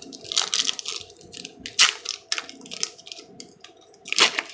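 Foil wrapper of a Pokémon card booster pack crinkling and tearing open in a series of irregular crackles.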